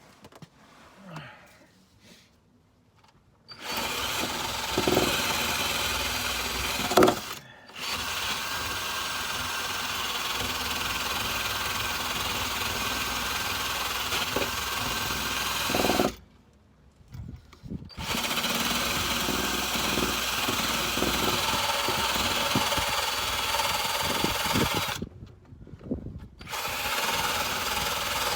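Electric drill with a wire brush attachment scouring surface rust off the car's steel underbody, spinning in long runs broken by short pauses. It starts after a few quiet seconds and stops briefly three times.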